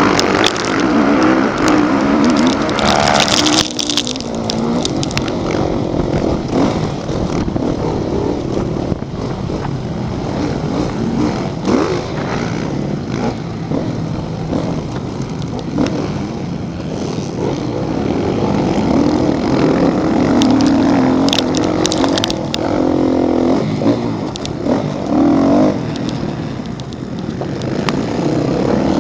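Motocross motorcycle engines running hard, the revs rising and falling again and again, loudest near the start and again toward the end.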